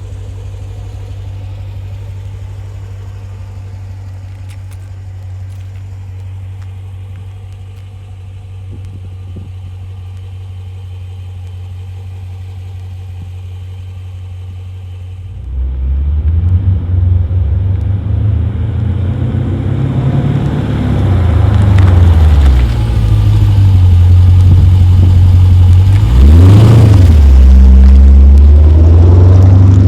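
Dodge Challenger Scat Pack's 392 HEMI V8 exhaust with the mid-mufflers deleted: a steady low idle, then about halfway through it turns much louder, the pitch climbing and dropping as the engine is revved, with one quick sharp rev near the end.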